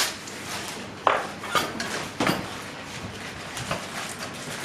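Metal tools and parts clinking and knocking during garage work on car suspension: a few sharp clanks, the clearest about one and two seconds in, with lighter clicks between.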